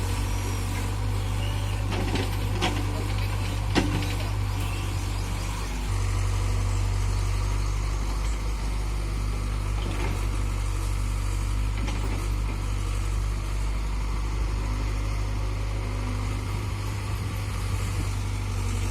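Diesel engine of a tractor or backhoe loader running steadily, a little louder from about six seconds in, with a few sharp knocks a few seconds in.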